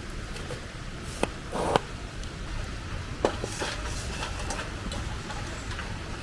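Wood campfire crackling: irregular sharp pops and clicks, a dozen or so, over a low steady background.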